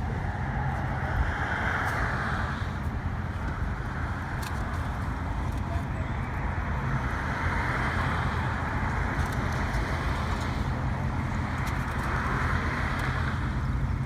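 Road traffic noise: a steady low rumble, with passing cars swelling and fading about every five seconds.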